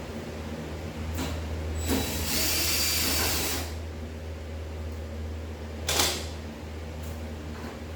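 Power driver spinning a screw out for about a second and a half, a high whine that starts and stops abruptly. A single sharp knock follows a few seconds later, over a steady low hum.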